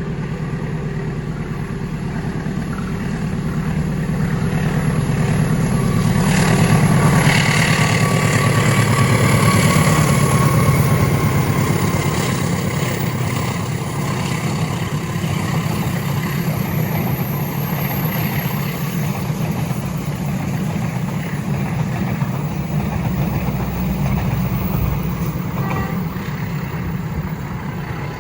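Long train running past: a steady low rumble that swells to its loudest about six to eleven seconds in, then eases a little.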